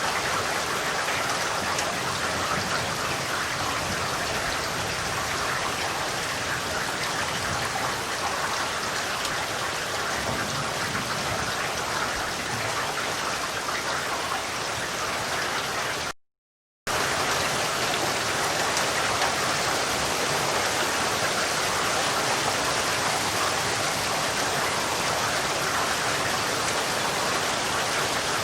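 Steady, even rain falling and pattering on surfaces. The sound cuts out to silence for under a second a little past halfway, then resumes at the same level.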